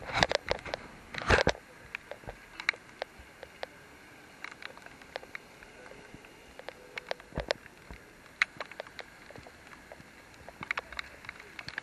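Raindrops falling, heard as scattered irregular taps and drips over a faint steady hiss, with a few louder knocks and rustles in the first second and a half.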